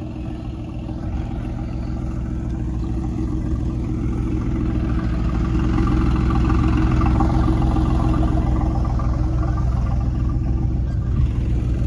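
Car engine running at low revs, a steady low note that grows louder over the first six seconds or so and then holds.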